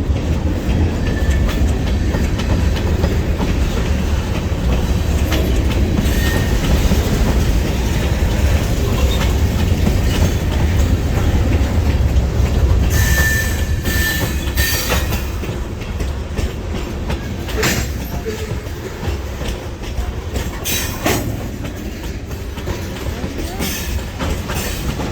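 A train rolling past with a heavy steady rumble and wheels clacking over rail joints, a brief wheel squeal about halfway through; the rumble eases off in the second half.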